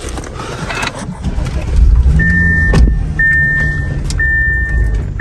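An Audi's engine starting about two seconds in and settling into a steady idle, while a dashboard warning chime beeps about once a second, each beep nearly a second long.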